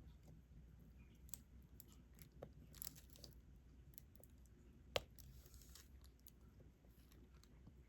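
Diamond painting drill pen picking up and pressing resin drills onto the adhesive canvas: a few faint, scattered clicks and taps, with one sharper click about five seconds in and a brief light rustle just after it.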